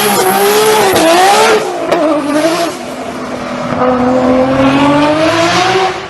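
Nissan Skyline RB26 twin-turbo straight-six engine running hard, its pitch climbing, dropping and climbing again as it accelerates through the gears, with a loud wash of noise over it; it cuts off suddenly at the end.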